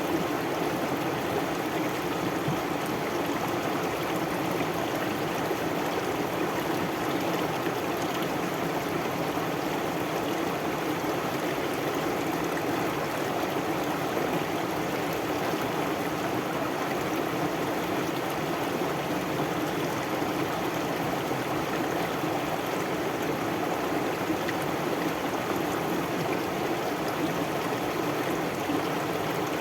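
Stream water flowing steadily, an even, unbroken sound with no changes.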